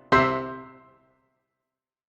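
Background piano music: a single chord struck just after the start rings and fades away within about a second, followed by a second of dead silence.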